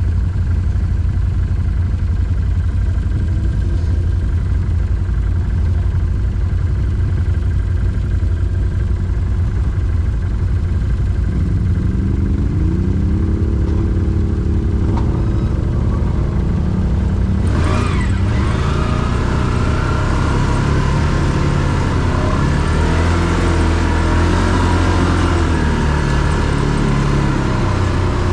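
ATV engine running under way, the revs climbing about halfway through. About two-thirds in there is a sharp crack, followed by louder, rougher engine sound with the revs rising and falling.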